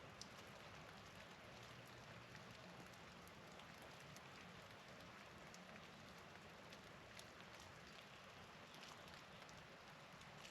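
Faint, steady patter of falling wet precipitation, with scattered small ticks over a soft hiss.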